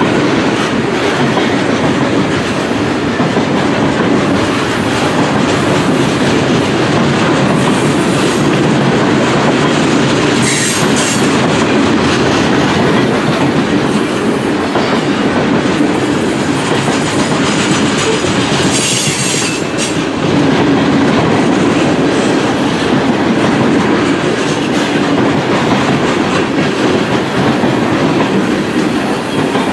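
Freight train boxcars rolling past close by: a loud, steady rumble of steel wheels on the rails. Two brief high-pitched wheel squeals come in, about a third of the way through and again about two-thirds through.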